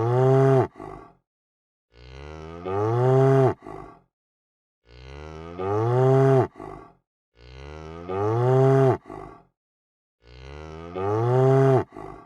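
A cow mooing, the same call repeated five times about every two and a half to three seconds. Each moo starts quietly and swells into a loud, drawn-out call that bends in pitch, then ends in a short grunt.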